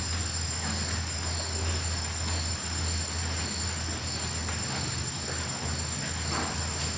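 Crickets trilling steadily in a continuous high chorus, over a steady low rumble.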